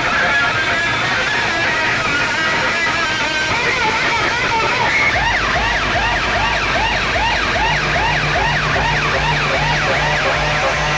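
Loud DJ music blasting from a procession sound system. About halfway through, a heavy bass comes in under a siren-like whooping effect that rises and falls two to three times a second.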